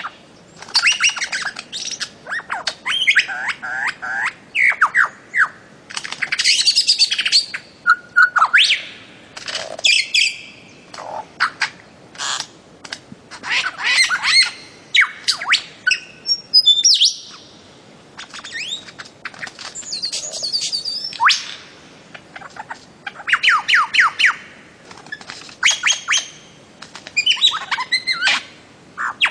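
Bird-of-paradise calling: repeated bursts of quick chirping and harsher squawking notes, each burst a second or two long with short pauses between.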